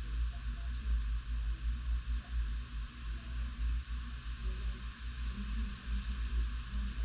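Tropical-storm wind gusting, buffeting the microphone with a rumble that surges and dips over a steady hiss.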